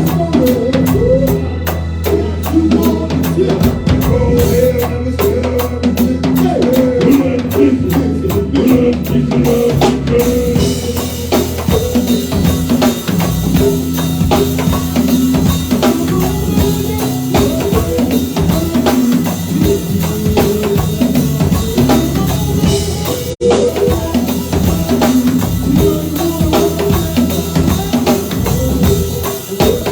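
A live band playing a song, with the drum kit keeping a steady beat of bass drum, snare and rimshots under sustained pitched instruments. The sound drops out for a moment about 23 seconds in.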